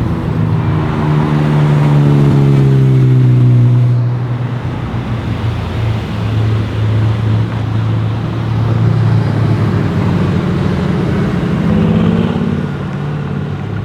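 Mercedes-AMG GT R's twin-turbo V8 through a loud aftermarket exhaust, running at low revs. Its pitch sinks over the first few seconds, the loudest part, then it holds a steady low note, with a short rise in revs near the end.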